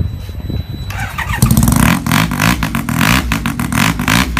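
Suzuki RE5 motorcycle's Wankel rotary engine running, low and rumbling at first; about a second and a half in it becomes much louder and steadier, with a fast, even pulse.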